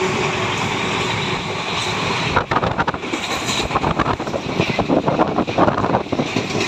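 Passenger train running, a steady rush of noise; about two seconds in, a fast, irregular clatter of knocks sets in.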